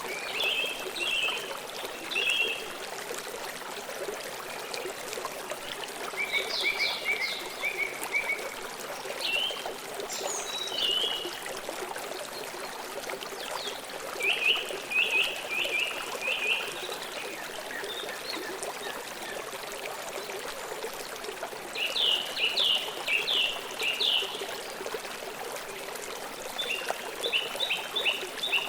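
Flowing river water, a steady rush, with birds chirping over it in short bursts of quick repeated notes every few seconds.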